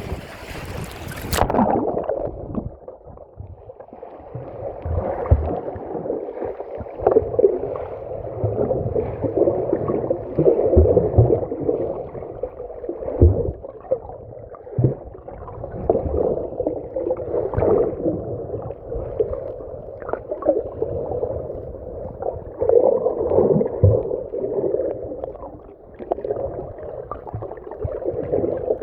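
Sea water heard through a submerged microphone: muffled gurgling and sloshing with irregular swells and occasional low thumps. About a second in, the open-air hiss cuts off suddenly as the microphone goes under water.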